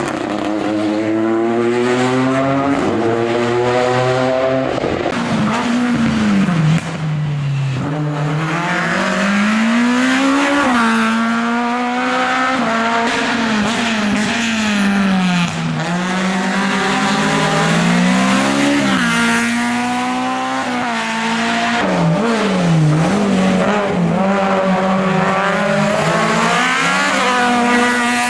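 Hillclimb race car engine at full throttle, its pitch climbing and then dropping sharply again and again through the gear changes, with dips and recoveries where the driver lifts for bends.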